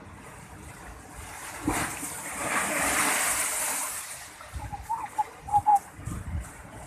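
A sea wave breaking and splashing about two seconds in, its hissing spray rising and dying away over about two seconds, followed by a few short, sharp chirps and knocks.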